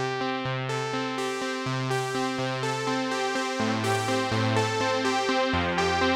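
Yamaha synthesizer playing a preset audition phrase from its analog outputs: sustained keyboard chords over a bass line that changes note every second or so.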